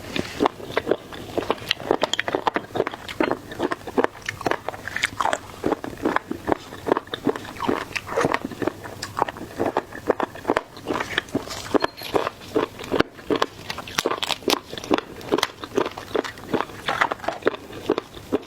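Close-miked eating of seafood: a steady run of biting and chewing, with many short wet crunching clicks several times a second.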